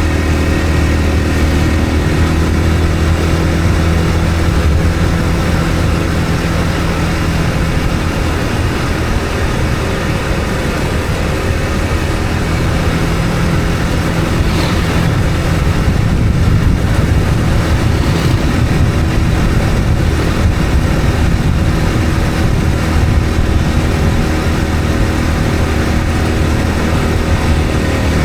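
A motor vehicle driving steadily along the road: a constant low engine hum mixed with road and tyre noise.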